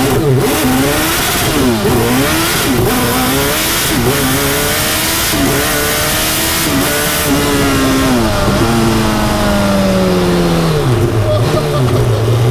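Turbocharged Suzuki Hayabusa inline-four engine in a Reliant Bond Bug three-wheeler, accelerating hard up through the gears. The pitch climbs and drops back at each of about five shifts, then falls in one long glide as the car slows, settling to a low steady note near the end.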